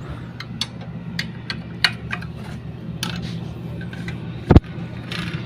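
Irregular metallic clicks and clinks of a wrench working the 8 mm bolts on a motorcycle engine's clutch-side oil cup, with one heavy thump about four and a half seconds in.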